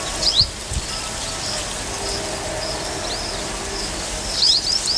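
Wild birds chirping over a steady outdoor hiss. There are short repeated high notes throughout, with quick downward-swooping calls about half a second in and a rapid run of them near the end.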